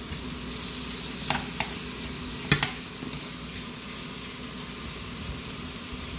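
Food sizzling in frying pans on a cooktop, asparagus in butter beside a tomato-based meat stew, with a utensil stirring. A few light clicks of the spoon against a pan come between about one and three seconds in.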